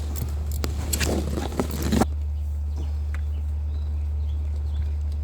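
Scattered clicks and knocks of hands and tools working in an engine bay for about two seconds, then they stop abruptly, leaving only a steady low hum.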